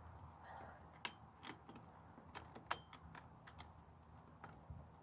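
Saw chain links clicking and rattling as the chain is worked by hand onto the bar and drive sprocket of an Oregon CS 1500 electric chainsaw. A dozen or so faint, scattered clicks, with two louder ones about a second in and near the middle.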